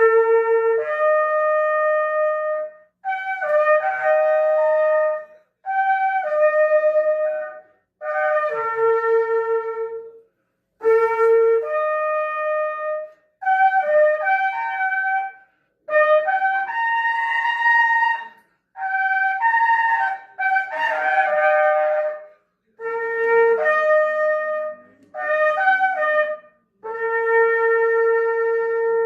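Shofar sounded in a series of about a dozen blasts, each about two seconds long with short gaps, the tone jumping between two or three notes.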